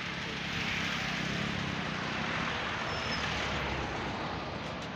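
A vehicle engine running steadily, a low hum under an even hiss.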